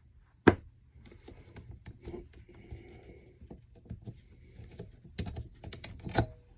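Metal engine parts and hand tools clinking and knocking as a small engine is taken apart by hand: one sharp knock about half a second in, then a run of lighter clicks and taps.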